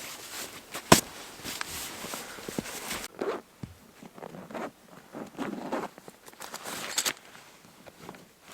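Rustling, scraping handling noises with one sharp click about a second in, then scattered softer rustles and clicks.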